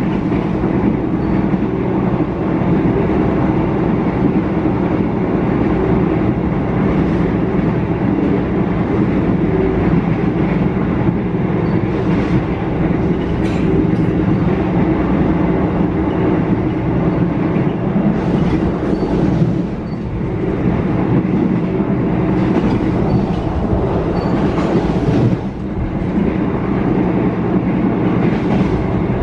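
Passenger train carriage running at speed: a steady, loud rumble and hum of the moving train, with a few sharp clicks from the wheels and brief hissing swells now and then.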